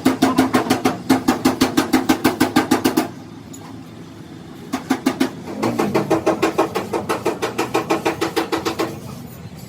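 Rapid, even strikes on metal with a ringing tone, about six a second, in two runs separated by a short pause.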